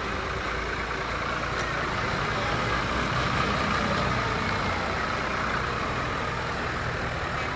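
Tractor engines running steadily as a low hum, growing a little louder midway.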